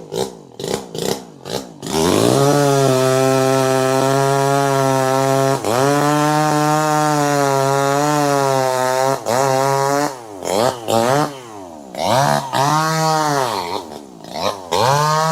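Two-stroke chainsaw engine ticking over in uneven pulses, then opened up to a steady high-revving whine about two seconds in. Near the end the throttle is blipped, with the revs repeatedly dropping and climbing back.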